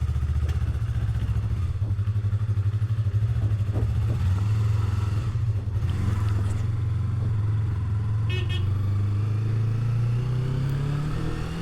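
Yamaha MT-03 motorcycle engine running at idle with a steady, even beat; its pitch rises slightly near the end.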